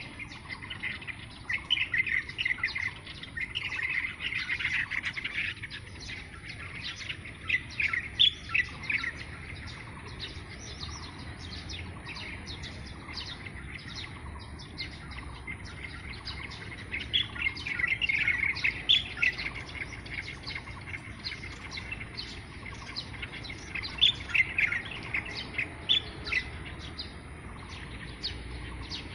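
Birds chirping and calling: many short, high chirps overlapping, busiest in flurries near the start, in the middle and again near the end.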